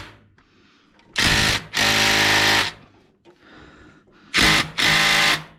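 Cordless impact wrench on a long extension hammering at a stubborn bolt in four bursts, two pairs of a short and a longer run; the bolt does not break loose.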